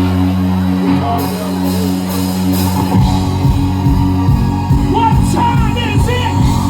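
Live band with drums, bass, keyboards and guitars playing: a held chord, then the drums and bass come in with a steady beat about three seconds in. Short vocal calls rise over the music near the end.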